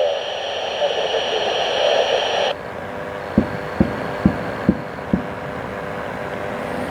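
Radio static hiss from a scanner receiver, cutting off suddenly about two and a half seconds in. Then five low, short thumps, about half a second apart.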